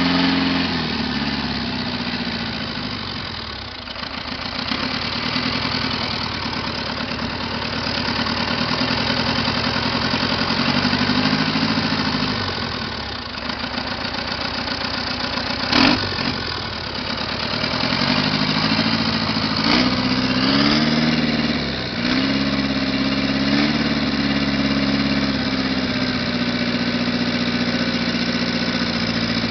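Caterpillar 3114 four-cylinder diesel engine running on test. Its speed drops and rises several times between idle and higher revs. There is a single sharp knock about halfway through.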